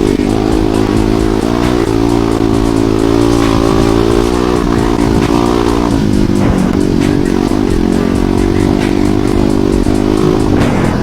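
Dirt bike engine running at steady revs, its pitch dropping about six seconds in.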